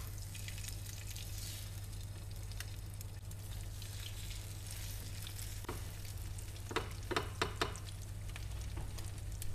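Egg-coated bread slices sizzling in oil in a nonstick frying pan, a steady hiss. About seven seconds in come a few quick sharp clicks of metal tongs against the pan as the pieces are turned.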